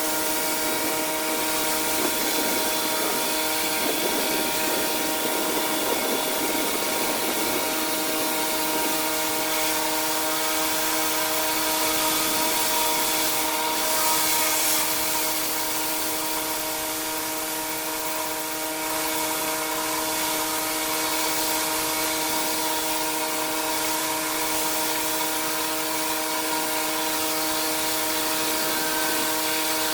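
Pressure washer running at a steady speed, its motor and pump holding one even pitch over the continuous hiss of the high-pressure water spray.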